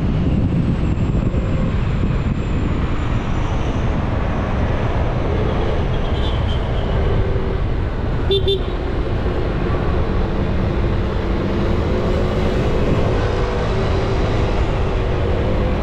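Motorcycle riding noise: a steady rush of wind and road noise with engine rumble. A short horn toot sounds about eight seconds in.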